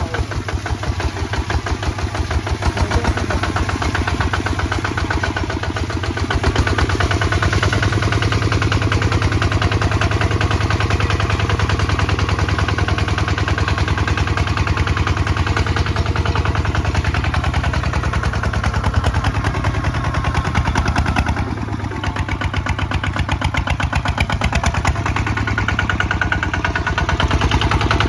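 Kubota ZT 155 DI single-cylinder diesel engine running steadily under plowing load, with a rapid, even chugging; it dips briefly about three quarters of the way through, then picks up again.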